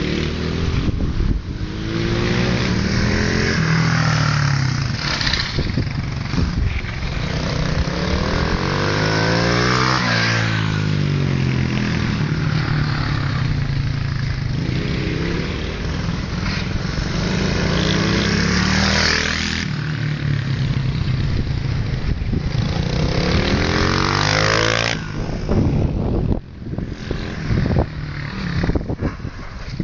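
Motorcycles lapping a car park. Their engines rev up and then drop in pitch as they go past, several times over. The sound is somewhat quieter near the end.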